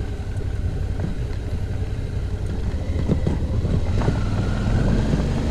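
Suzuki V-Strom motorcycle riding slowly over a rocky dirt trail: a steady low engine rumble, with a few short knocks from the bike jolting over rocks about three and four seconds in.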